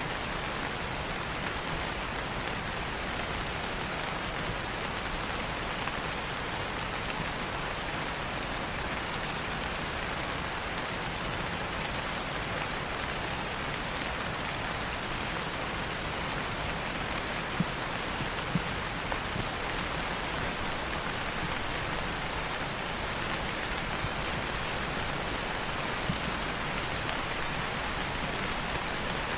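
Steady rain falling as an even hiss, with a few sharper, louder drops a little past the middle.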